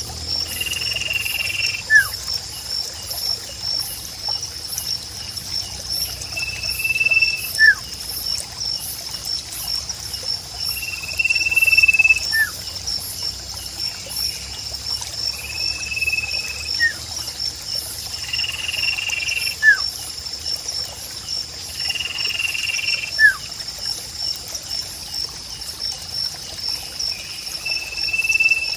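Sirpu bird calling: a short level whistle followed by a quick down-slurred note, repeated roughly every four seconds. Under it run a steady high pulsing insect trill and trickling water.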